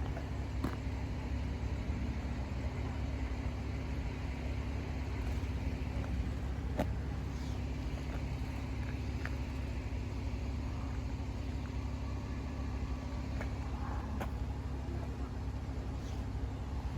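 A vehicle engine idling steadily, a low even rumble, with a few faint clicks.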